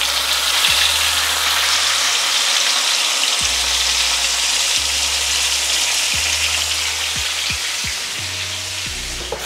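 Marinated whole chicken sizzling and spattering in hot oil in a frying pan, just after being laid in. The sizzle is loud and steady and eases slightly near the end.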